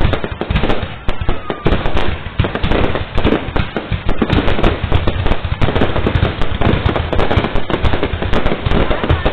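Aerial fireworks display: a dense, unbroken barrage of bangs and crackles, many bursts overlapping.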